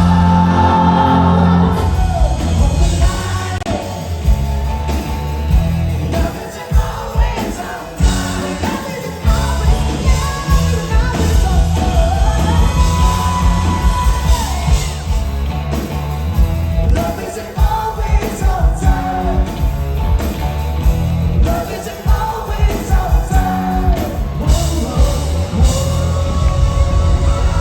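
Yacht-rock cover band playing live, with a lead singer over full band, and the crowd yelling and whooping. The sound changes about three-quarters of the way through, where one song gives way to another.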